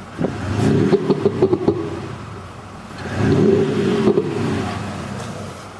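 Mercedes GLE 400d diesel with an Automotive 7.0 active sound booster playing an AMG-style V8 exhaust note, revved twice, each rev rising and falling in pitch. Sharp pops crackle through the first rev, the booster's pop-and-bang effect.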